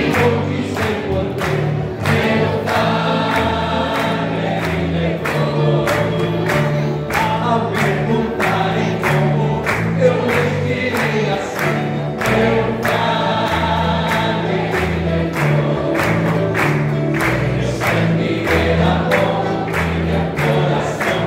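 Gospel worship song with a choir singing over a steady drum beat and bass line, cutting in suddenly.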